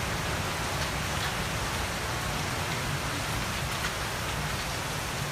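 Steady rain falling: an even, constant hiss with a low rumble underneath.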